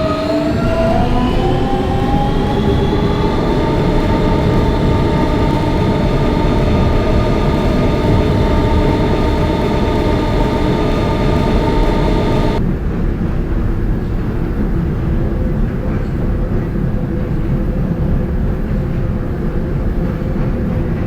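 R160B Siemens subway car accelerating: the AC traction propulsion gives a stack of whining tones that climb in pitch for the first few seconds and then hold steady over the rumble of wheels on rail. About twelve seconds in, the whine cuts off suddenly as power is shut off, and only the low rumble of the coasting train remains.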